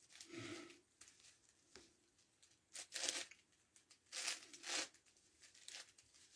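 9x9x9 Rubik's Cube layers being turned: short bursts of plastic scraping and clicking, four louder turns among fainter ones.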